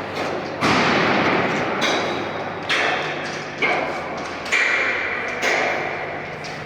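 A hammer striking sheet-metal ductwork six times, about a second apart, each blow ringing and dying away.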